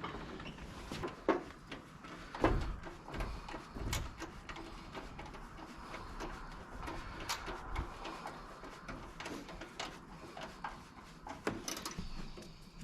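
Scattered knocks, clicks and rattles of hands handling and fitting parts of the Jeep's summer top hardware, with a few louder thumps in the first few seconds.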